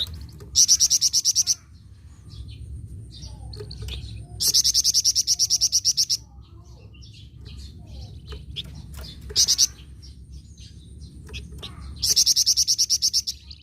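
Velvet-fronted nuthatch (flamboyan) singing in full voice: loud, fast trills of high chipping notes, about ten a second, in four bursts of about a second each, the third one short. Softer chirps of other birds fill the gaps.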